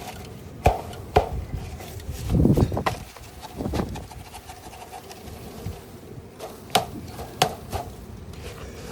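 Sharp wooden knocks and scraping from handling the wooden beehive parts: four single knocks, two close together near the start and two near the end, with a longer rough scrape or shuffle in between.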